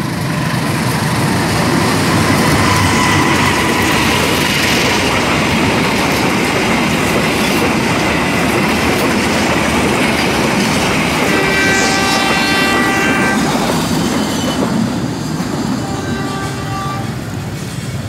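Passenger train passing a level crossing close by: a steady rumble and clatter of wheels on the rails that swells at the start and eases off near the end. A pitched tone lasts about two seconds, about two-thirds of the way through.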